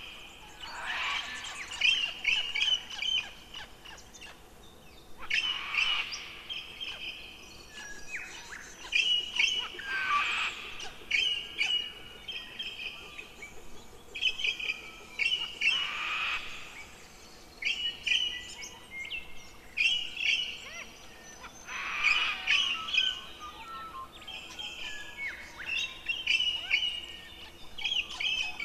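A songbird singing, short varied phrases of chirps and trills coming every two to four seconds with brief pauses between them.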